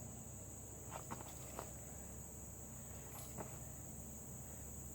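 Steady high insect chirring, with a few faint clicks and rustles about a second in and again past three seconds, typical of spent brass casings being picked up.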